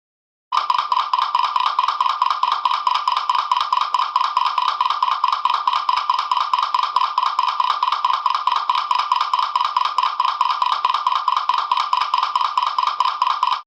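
A rapid, even train of sharp, pitched clicks, about seven a second, steady for some thirteen seconds, starting and stopping abruptly.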